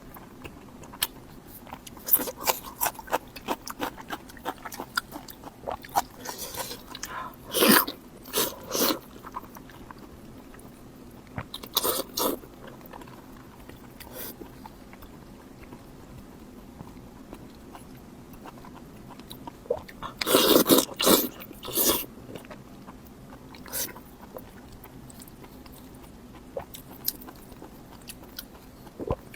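Close-miked eating: a person biting and chewing food in loud clusters of sharp, wet mouth sounds, with quieter stretches of small chewing clicks between.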